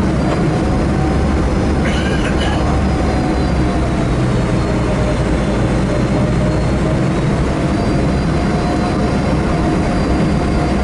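Boeing 757-200's jet engines heard from inside the passenger cabin: a steady deep rumble with an engine whine whose pitch drifts slightly, as the airliner waits or taxis before take-off. A brief high-pitched sound about two seconds in.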